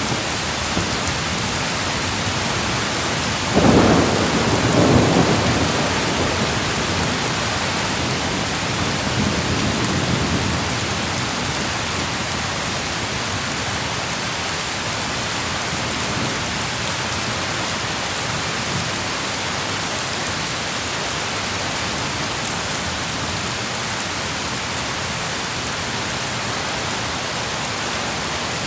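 Steady heavy rain with a thunderclap about three and a half seconds in that rumbles for a couple of seconds, and a fainter roll of thunder around ten seconds in.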